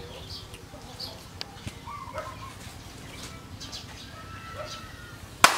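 Scattered faint bird chirps, then a single loud sharp click or knock near the end.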